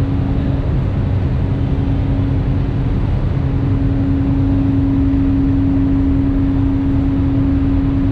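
An engine running steadily at constant speed: a loud, unchanging hum over a low rumble.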